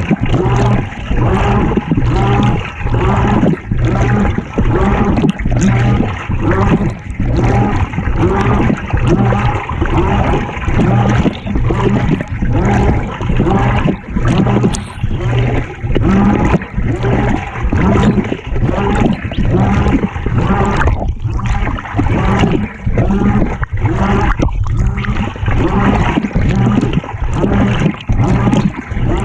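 Water churning and sloshing inside a GE top-loading washing machine's tub, heard from among the wet laundry, surging in a steady rhythm about once a second over a constant low hum.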